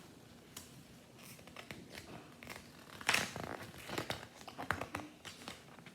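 Paper being handled: soft crinkling and rustling with small clicks, louder for a moment about three seconds in.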